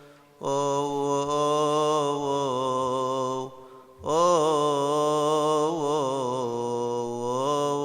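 A male deacon chanting a Coptic Orthodox hymn solo and unaccompanied, in long held notes with wavering melismatic ornaments. There are two phrases, with a short breath about three and a half seconds in.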